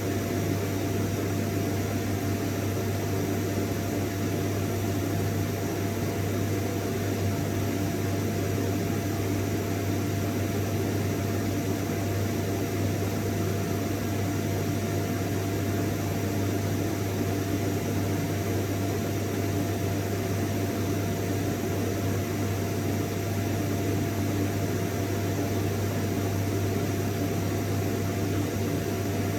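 Vacuum cleaner running steadily: a deep constant hum with a thin whine held at one pitch over a wash of airflow noise, never changing in level.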